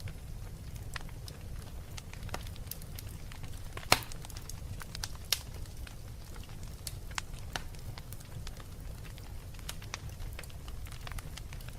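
Wood fire burning in a fireplace: irregular crackles and pops over a steady low rumble, with one sharp loud pop about four seconds in.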